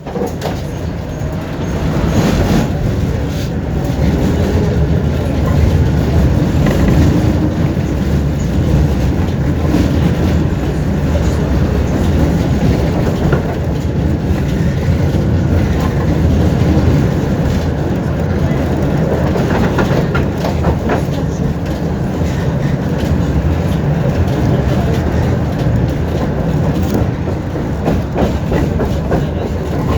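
Tram running along the track between stops, heard inside the car: a steady rumble of motors and wheels on rails, with scattered clicks of the wheels over rail joints, a cluster of them about twenty seconds in.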